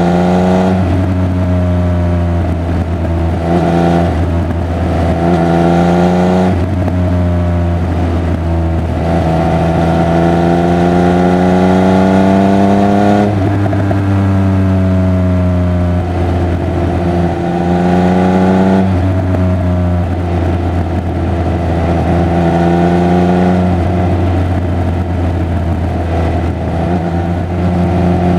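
Triumph Speed Triple 1200 RR's inline three-cylinder engine and exhaust under way. The pitch climbs steadily under throttle for several seconds, then drops sharply several times over, with rougher off-throttle stretches in between.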